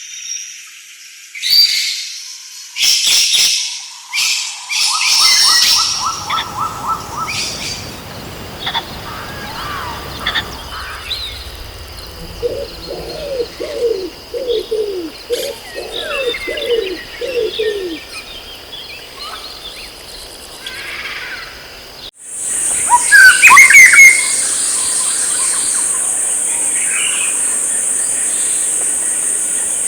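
Wild birds calling and singing: high chirps, a short fast trill, then a run of about a dozen low falling notes. About two-thirds of the way in the ambience cuts abruptly to a loud, steady, high-pitched insect-like buzz with bird chirps over it.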